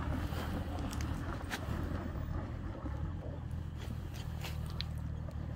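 A steady low mechanical hum with scattered small clicks and taps over it.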